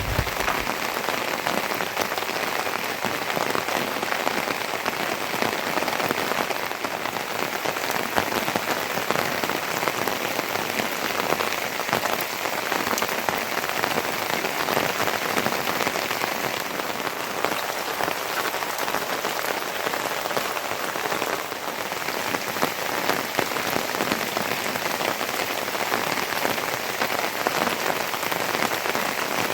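Steady rain falling, an even hiss dotted with the fine ticks of individual drops.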